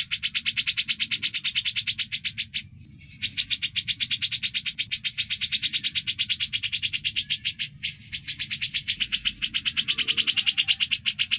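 A bird's rapid, even trill of buzzy, high notes, about ten a second, breaking off briefly about three seconds in and again near eight seconds.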